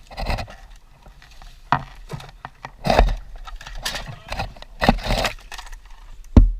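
Irregular crunches, scrapes and rustles of people moving and handling things in dry leaves and brush, one sharp crunch about every second, with a low rumble underneath.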